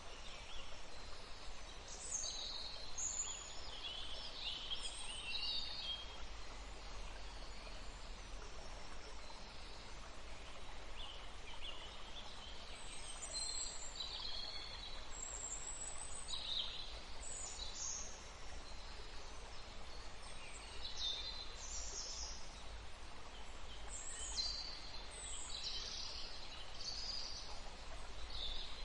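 Many short, high bird chirps and calls scattered throughout, over a steady background rush of flowing water.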